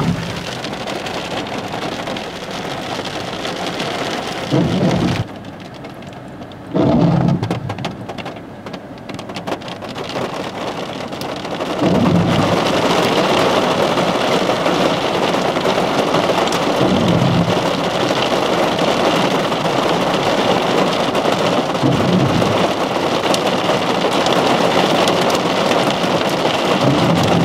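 Heavy thunderstorm rain pouring down. It jumps suddenly louder about twelve seconds in as the storm cell moves overhead, with a short low thud recurring about every five seconds.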